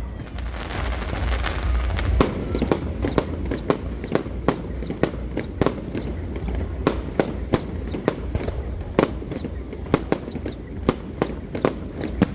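Fireworks going off: a rapid, irregular string of sharp bangs, about two to three a second, over a steady low rumble, with a burst of dense crackling in the first couple of seconds.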